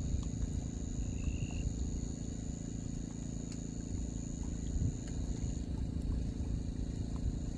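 Insects trilling in a continuous high-pitched buzz that breaks off briefly about five and a half seconds in, over a steady low rumble.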